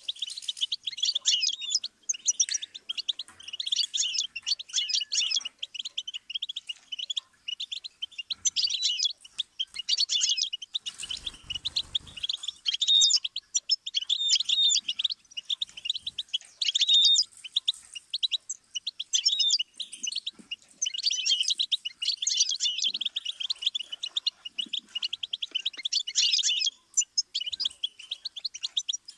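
Finch song of the goldfinch type: one bird sings long, fast twittering phrases of trills and chirps with short pauses between them. A brief low rumble comes about eleven seconds in.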